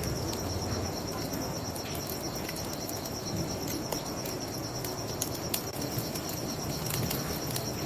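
Crickets chirping steadily in a fast, high pulsing trill, with a bonfire crackling in sharp scattered pops over the steady rush of a river.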